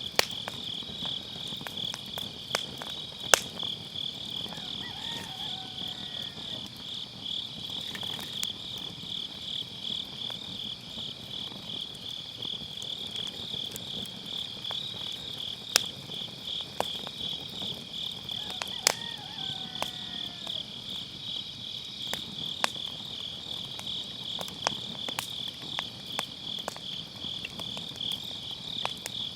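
Crickets chirping steadily in a fast, even pulsing trill, over a wood fire crackling with scattered sharp pops from the burning firewood; the loudest pops come about three seconds in and again around sixteen and nineteen seconds.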